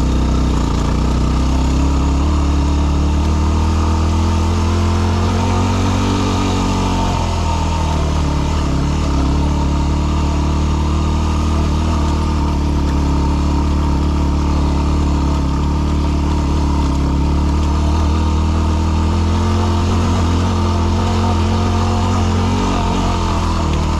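Yamaha WR250R's 250 cc single-cylinder four-stroke engine pulling the dual-sport motorcycle up a rough mountain trail. Its pitch climbs slowly for several seconds, drops sharply about seven seconds in, then holds steady.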